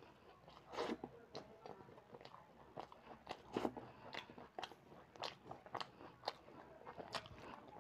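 A person chewing and eating rice and ripe mango with the mouth open, giving a run of short smacking clicks about two or three times a second.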